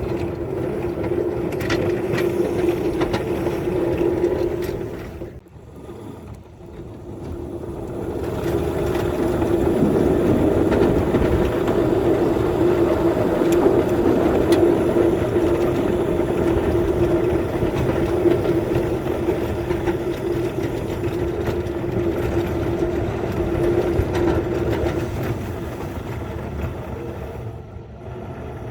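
Small engine running steadily with a constant hum, dropping off briefly about five seconds in before picking up again.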